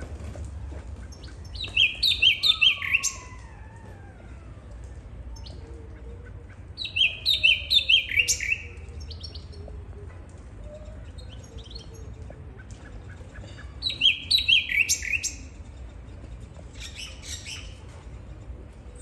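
A caged bird calling three times, each call a quick run of five or six sharp, falling notes.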